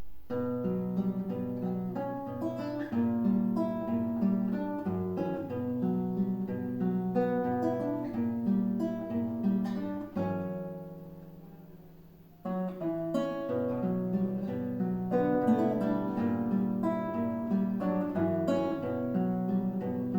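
A plucked-string duet playing a slow melody over bass notes. About ten seconds in the playing thins to one low note that fades away, and about two seconds later both parts come back in.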